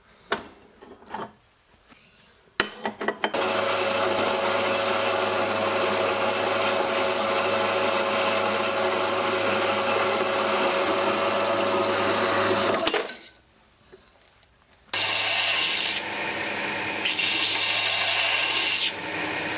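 A few metal clicks and knocks, then an electric power tool running steadily for about ten seconds, cutting scrap steel. It stops briefly and starts again for the last few seconds.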